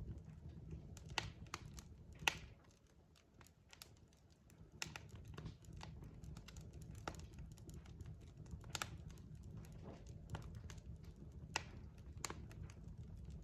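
Burning logs crackling in a fireplace: irregular sharp pops and snaps over a low steady rumble. The rumble drops away about two and a half seconds in and comes back about two seconds later.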